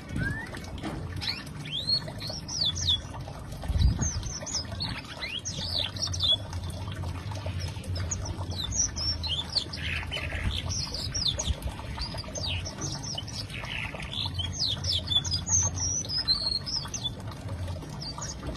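Canary singing: a long run of short, high, quickly sliding chirps and twitters, with a low steady hum underneath and a single thump about four seconds in.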